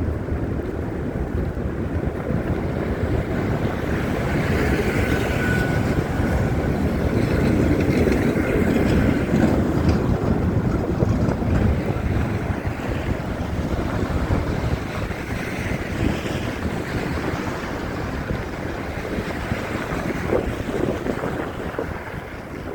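Wind buffeting a phone's microphone in a snowstorm: a rough, gusting rumble that grows stronger in the middle and eases toward the end.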